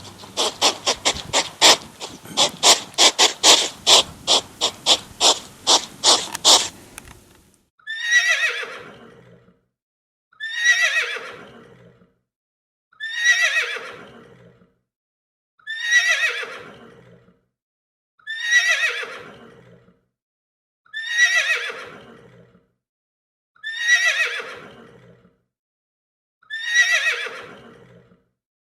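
Rapid clicking, about four or five clicks a second, stops about seven seconds in. Then an animal call that falls in pitch repeats eight times, evenly spaced, each call the same as the last.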